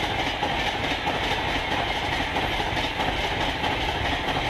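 Red LHB passenger coaches of an express train passing close by at around 130 km/h: a steady, loud rush of steel wheels running on the rails.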